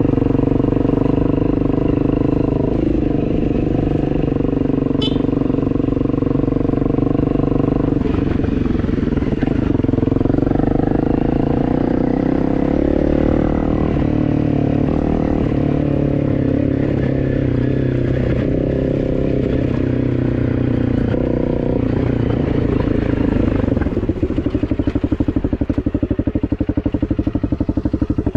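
A motor vehicle's engine running continuously. Its pitch shifts about a third of the way in, and it settles into a slower, evenly pulsing beat near the end, as at lower revs.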